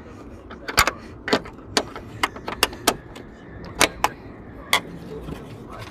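About nine sharp, irregular metallic clicks and knocks over several seconds, from tools and hardware being handled at a car door's hinge bolts.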